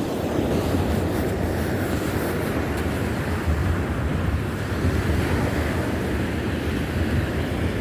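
Baltic Sea surf washing onto a sandy beach in a steady wash, with wind rumbling on the microphone.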